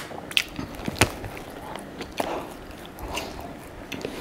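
Close-up chewing of a croissant, soft mouth sounds broken by scattered sharp clicks about once a second.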